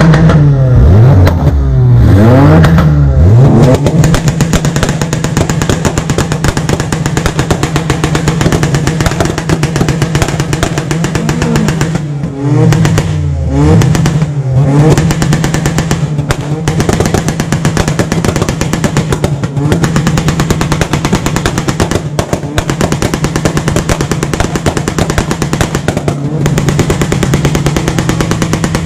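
Honda engines revving up and down, then held at the launch-control rev limiter in a steady, rapidly stuttering drone. The revs sweep up and down again about twelve to fifteen seconds in.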